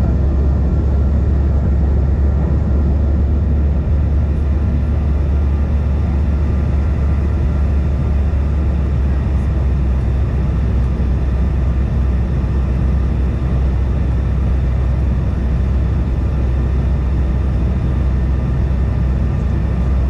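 Cabin noise of a Bombardier CRJ-550 regional jet in flight: a steady, deep rumble of airflow and its two rear-mounted GE CF34 turbofans, with faint steady engine whines above it.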